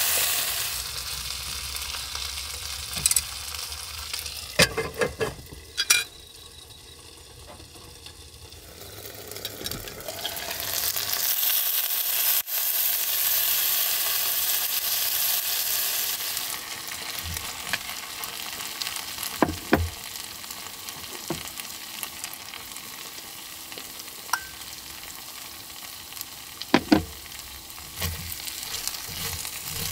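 Chicken and garlic frying in a black iron pan over a camp burner, sizzling steadily, with chopsticks clicking against the pan a few times. The sizzle gets much louder about a third of the way in, when the condensation-covered lid is lifted off.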